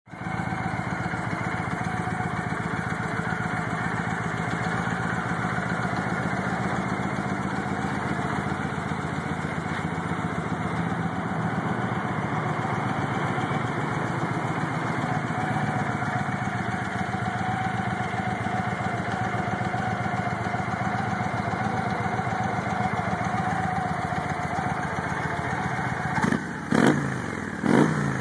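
2009 Victory Jackpot's 106-cubic-inch V-twin, with a stage 1 tune and Cobra 2-into-1 exhaust, idling steadily. Near the end it is revved in a few quick blips.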